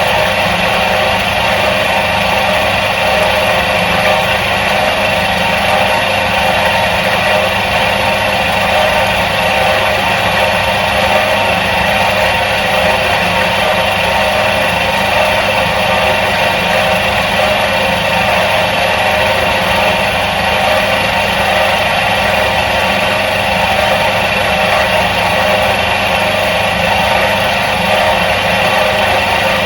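Electric motor of a 1977 Soviet washing machine running steadily: an even, unbroken hum with a whirring hiss over it.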